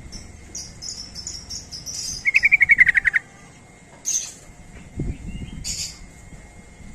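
Yellow-vented bulbul (trucuk) calling: a quick series of high chirps, then a loud, fast rattling trill about two seconds in, followed by two short chirps.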